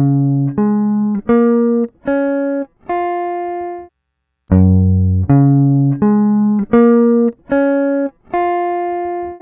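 Electric guitar playing a short phrase of single picked notes, each ringing and fading. About four seconds in there is a half-second break, and then the phrase starts again.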